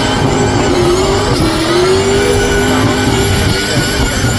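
Racing car engine at high revs, its pitch held high with a brief dip about one and a half seconds in before it climbs again, then falling away near the end, over a constant rush of noise.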